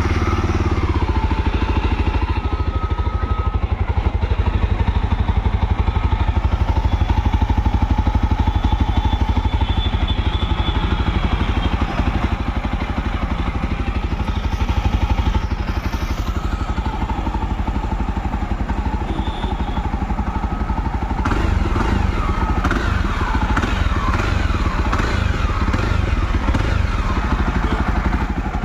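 Jawa 42 Bobber's single-cylinder engine, through its exhaust, running steadily just after a cold start. About three-quarters of the way through the sound gets fuller, with the pitch rising and falling a few times as the throttle is blipped.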